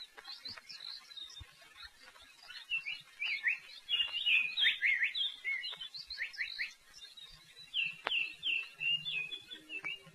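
Songbirds chirping, with many short, quick notes that mostly fall in pitch. Soft music comes in near the end.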